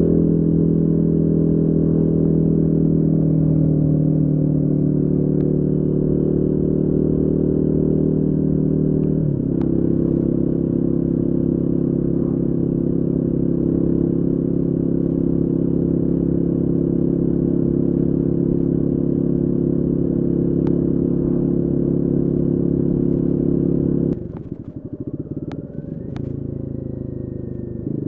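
Royal Enfield Guerilla 450's single-cylinder engine running at steady revs, dipping in pitch briefly about nine seconds in. Near the end it drops off to a quieter, lower, uneven sound and then settles to a low steady note.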